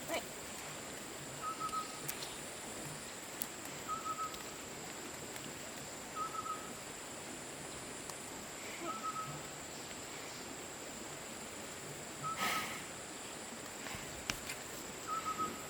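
A bird repeating one short whistled call, about every two and a half to three seconds, over a steady high hiss with a few faint clicks.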